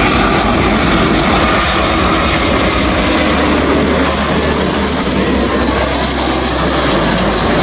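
Airbus A321-200 airliner's jet engines running loudly and steadily, a dense rushing noise that holds level throughout.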